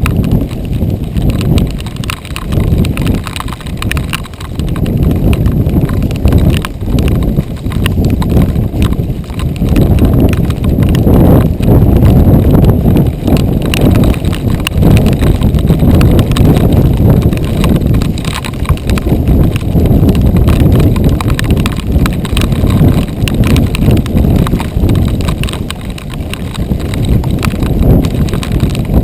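Mountain bike rattling and clattering over a rough dirt trail: a continuous, irregular stream of knocks and bumps over a heavy rumble.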